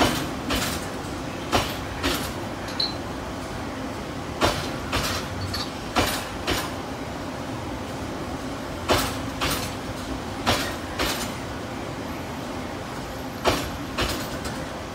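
Myanmar Railways passenger coaches rolling slowly past, their wheels clacking over rail joints in pairs about half a second apart, a pair every couple of seconds, over a steady rumble.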